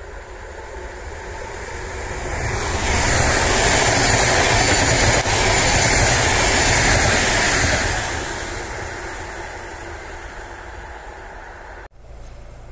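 ES2GP Lastochka electric multiple-unit train passing at speed: a rushing noise builds over a few seconds, stays loud for about five seconds as the cars go by, then fades as the train draws away. It cuts off suddenly near the end, leaving a quieter low rumble.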